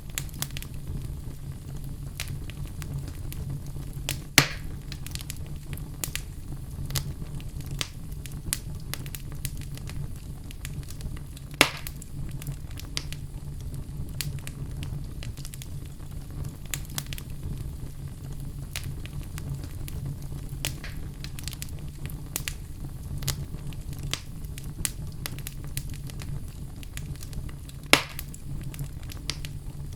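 Log fire crackling, with a steady low rumble under a constant scatter of small crackles. Three sharp, louder pops come about four seconds in, near twelve seconds, and near the end.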